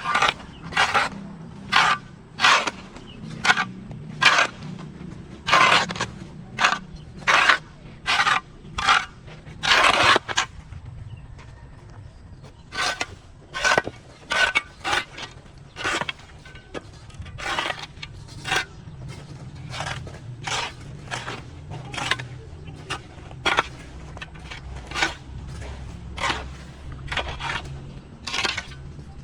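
Rhythmic scraping strokes of a hand tool working through overgrown grass and weeds, about two strokes a second, with a short pause partway through.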